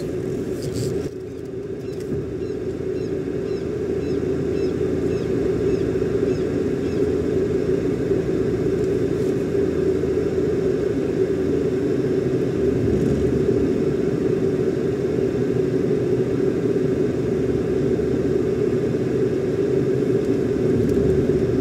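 Car engine running with a steady, even hum.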